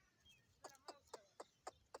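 Faint, rapid, evenly spaced clicking, about four clicks a second, with a few short, high bird chirps near the start.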